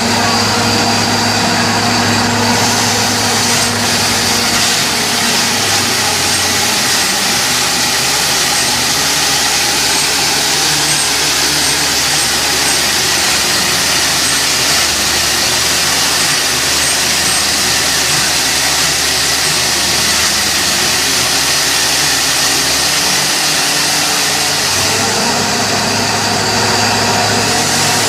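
Borewell drilling rig running steadily: a loud, continuous engine-driven din, its low engine hum shifting in pitch a couple of times.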